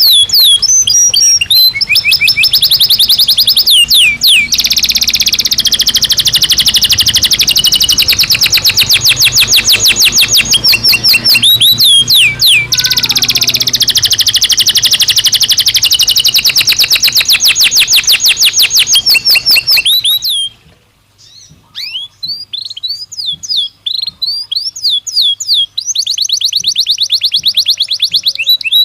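Belgian canary singing: long, fast trills of rapidly repeated high notes. About two-thirds of the way through the song thins to scattered chirps, then it builds back into trills near the end.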